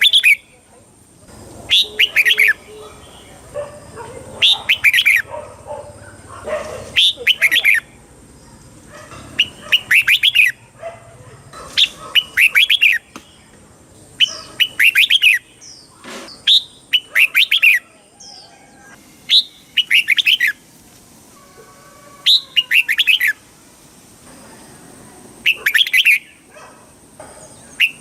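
Red-whiskered bulbul singing: short phrases of quick whistled notes, repeated about every one and a half to two seconds.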